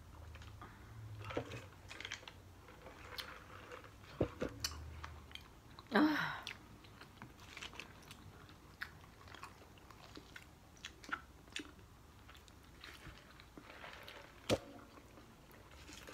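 People chewing and crunching fried chicken and biscuits, small crackly bites throughout. A brief falling 'mm'-like vocal sound comes about six seconds in, and a few sharp knocks are heard later.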